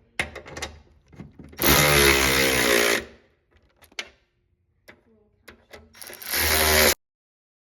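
A handheld power tool, such as a cordless drill or driver, runs in two short bursts: a longer one of about a second and a half, then a shorter one near the end, with light clicks and knocks of handling between them.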